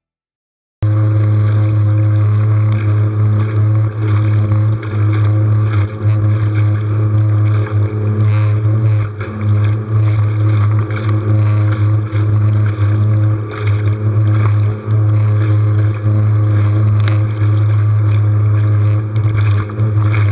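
Small outboard motor on a kayak running steadily under way, a continuous low drone. It cuts in abruptly about a second in.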